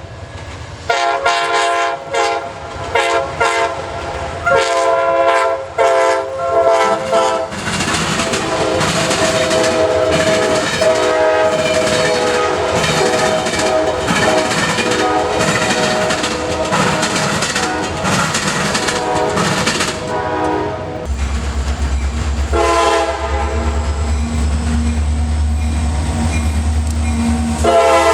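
Diesel freight locomotive horn sounding several separate blasts, then blowing on as the train passes with the clatter of wheels and cars. Later a low engine rumble comes in and the horn sounds again near the end.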